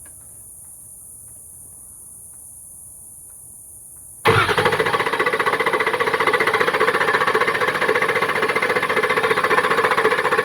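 2004 Ford F-250's engine being cranked by the starter for about six seconds without catching, an even pulsing churn that starts suddenly and cuts off near the end: a crank-no-start.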